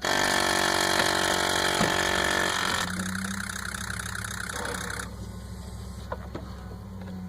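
A steady mechanical whine with several tones from the non-starting 6.0 Power Stroke's engine bay, which drops after nearly three seconds to a quieter steady hum. The owner takes it for a rotary pump trying to pump.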